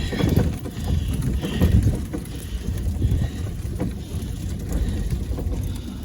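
Low, steady rumble heard inside a velomobile's cockpit as it is pedalled through deep, heavy wet snow, with a few faint irregular knocks from the shell and wheels.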